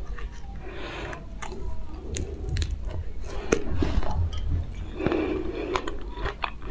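Close-miked chewing of a fresh strawberry: wet, squishy mouth sounds broken by many small sharp clicks.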